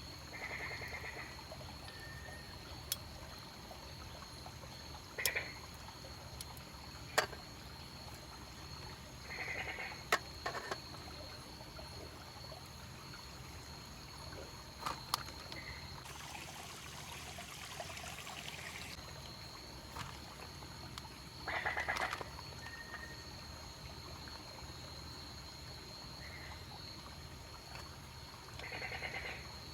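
Night-time outdoor ambience with frogs giving short calls every few seconds over a steady high-pitched whine. Sharp clicks are scattered through it.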